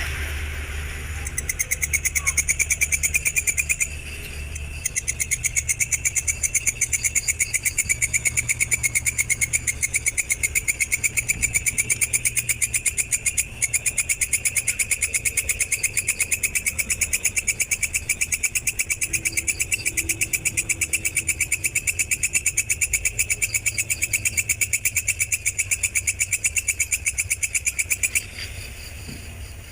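A singing insect's fast, evenly pulsed trill, held steadily with a brief break about four seconds in, stopping near the end. A low hum runs underneath.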